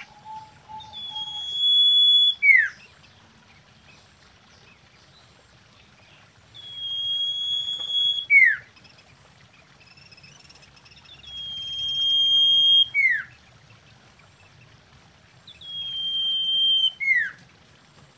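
Common iora whistling its call four times, about once every four to five seconds. Each call is a long, steady high whistle that ends in a quick downward slur.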